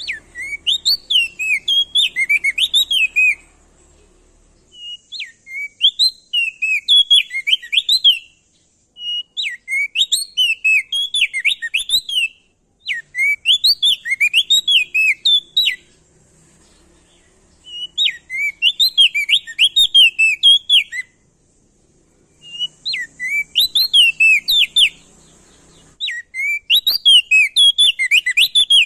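Crested white-eye (opior jambul, also called prenjak daun) singing loudly in repeated bursts of quick, rising and falling whistled notes, each burst lasting two to three seconds with short pauses between, about seven bursts in all.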